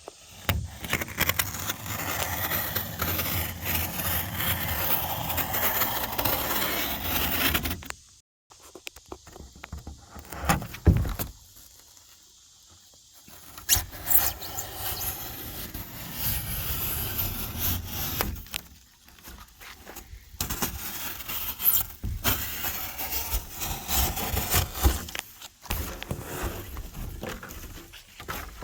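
Fillet knife cutting foam insulation board, the blade squeaking and scraping through the foam in several stretches with short breaks.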